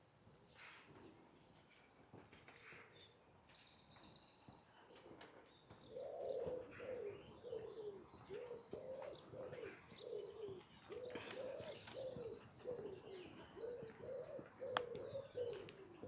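A pigeon cooing: a run of low coos repeated about twice a second from about six seconds in. Short high trills from a small songbird come in the first few seconds and again partway through.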